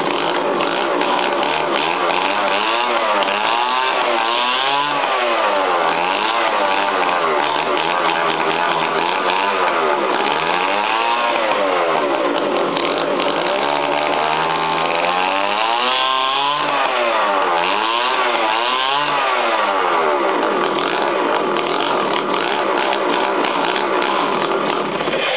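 49cc Chinese two-stroke engine running, its pitch swelling up and down again and again as it is revved, then holding steadier for the last few seconds. It is not running right and doesn't want to rev: it runs really rich at idle because the mixture screw is out.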